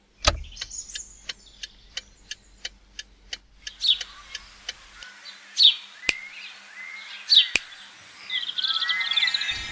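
A run of light ticks, about three a second, for the first three seconds. Then birds chirping in short downward-slurred calls, thickening into a busy chorus of overlapping bird song near the end.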